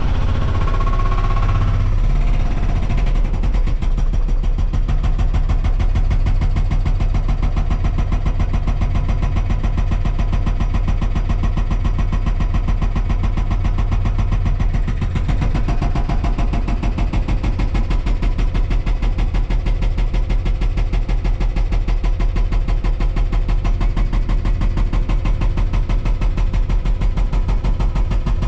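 Volvo 235EL excavator's diesel engine running steadily, its even pulsing becoming more pronounced about halfway through.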